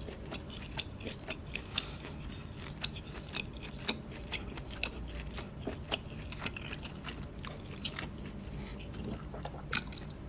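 Close-miked chewing of roast lamb leg meat, with many small wet mouth clicks and smacks, several a second.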